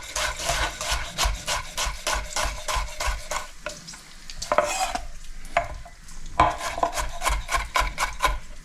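Kitchen knife chopping onions on a cutting board: a fast, even run of strokes, then slower, irregular cuts from about halfway through.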